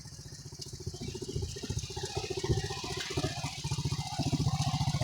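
A small engine running with a fast, even putter, growing louder from about a second in.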